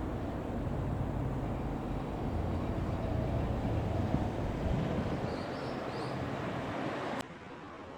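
Large vehicle's engine running, a steady low rumble mixed with road and wind noise, dropping away sharply about seven seconds in.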